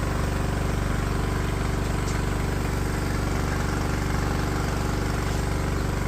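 An engine running steadily at an even speed, with a fast regular pulse and no change in pitch.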